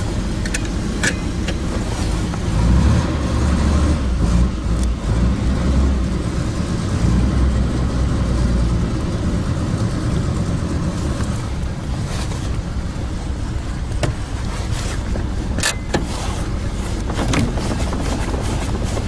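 1947 Dodge's flathead straight-six engine running steadily on full choke just after a cold start.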